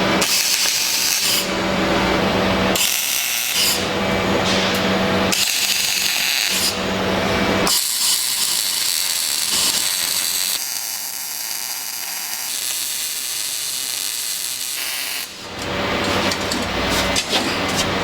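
Metalworking power tool running with a loud, hissy noise in several short segments that start and stop abruptly, then a steadier stretch of about seven seconds.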